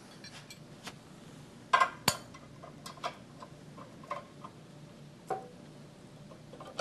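Scattered light metallic clicks and knocks from hand work on a small belt sander, with a tool being fitted to the bolt that holds its table; the sander is not running. The loudest pair of knocks comes about two seconds in, with softer clicks after it.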